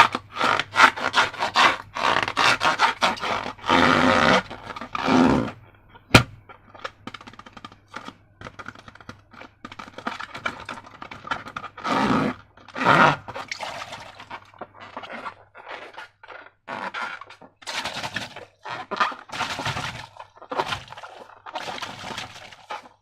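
Slime being handled: a dense run of short, irregular squishing and scraping noises, with one sharp click about six seconds in.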